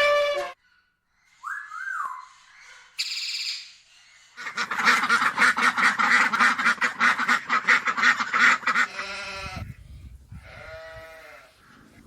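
A series of animal calls: a few short calls, then one long call with a rapid pulsing that lasts about five seconds, followed by shorter calls near the end.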